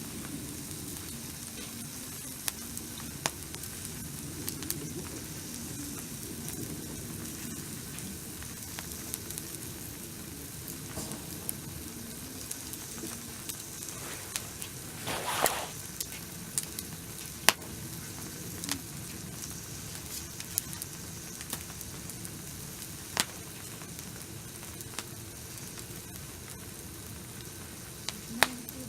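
Food sizzling on a barbecue grill over a fire, a steady hiss with scattered sharp pops and crackles and a brief louder hiss about fifteen seconds in.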